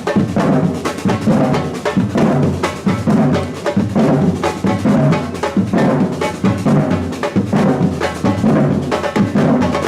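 Batucada samba drum band playing a steady, driving rhythm: deep bass drums beating a regular pulse under dense snare and other hand-percussion strokes.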